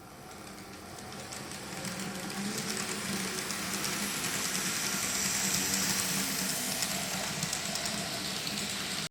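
TOMIX N-scale 183 series model electric train running on track, its motor hum and rolling wheels growing louder over the first three seconds as it comes closer, then holding steady.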